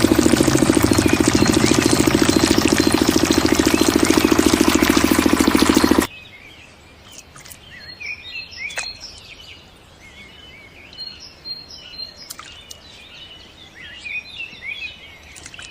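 Small diesel water-pump engine running loudly with a fast, even beat, cut off abruptly about six seconds in. After that, birds chirp over quiet outdoor background.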